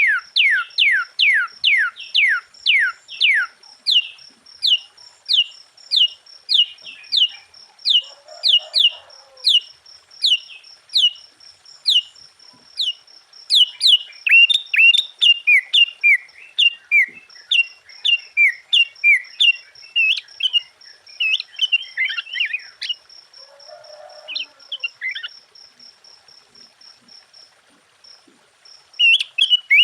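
Sooty-headed bulbul (kutilang) in full song: a fast run of sharp downward-sliding whistled notes, about three a second, breaking midway into a busier, more varied chatter that thins out near the end.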